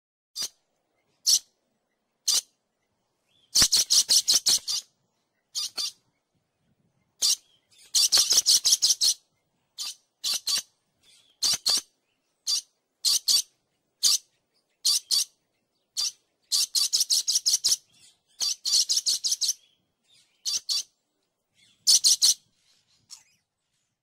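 A bird chirping in short, shrill, high-pitched notes, some single and some in quick runs of six to eight, with clean silent gaps between them.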